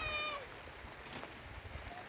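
A single short, high-pitched animal cry, level in pitch and dropping at its end, then faint background noise.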